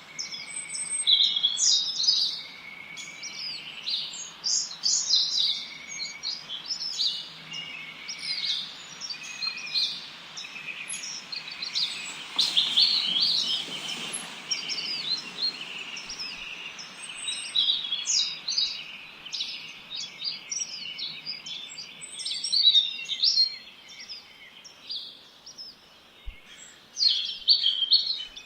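Chorus of small songbirds chirping and trilling in quick, overlapping high phrases, with a short lower whistled note repeating every couple of seconds through the first half, over a faint steady hiss.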